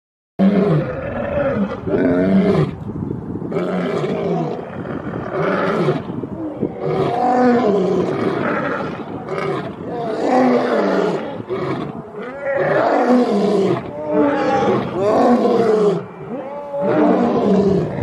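A large animal calling loudly again and again, a rapid series of harsh pitched calls one after another. It starts abruptly about half a second in.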